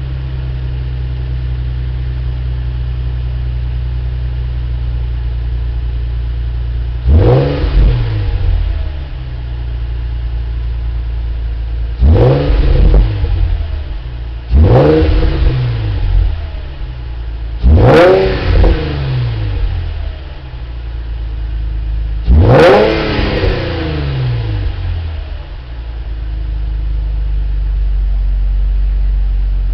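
Nissan Fairlady Z (Z33) 3.5-litre V6 through a Kakimoto Regu06&R aftermarket exhaust, idling steadily and revved five times in short blips. The pitch climbs and falls back each time before settling to idle again.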